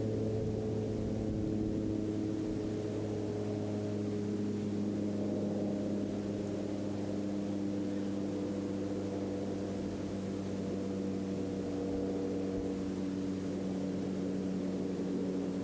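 A steady engine drone: several held low tones that slowly drift in pitch.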